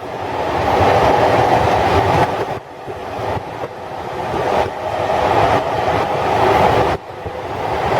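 Running noise of a 12-series passenger coach on the move behind its electric locomotive: a continuous rumble of wheels on rail with some clickety-clack. The rumble swells and dips every two to three seconds, with a sudden drop about seven seconds in.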